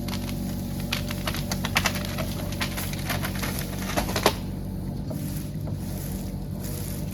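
Mini excavator's diesel engine running steadily, with a scatter of sharp clicks and knocks through the first four seconds or so.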